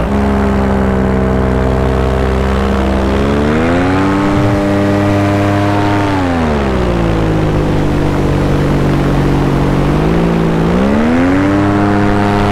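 Paramotor engine and propeller running in flight. The engine is throttled up about four seconds in, eased back down around six seconds, and throttled up again near the end.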